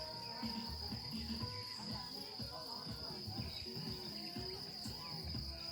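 Crickets chirring: a steady, unbroken high-pitched trill.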